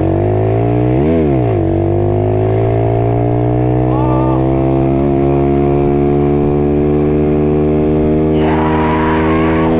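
Motorbike accelerating flat out from a race start, its pitch climbing steadily. About a second in there is a brief dip and recovery in pitch.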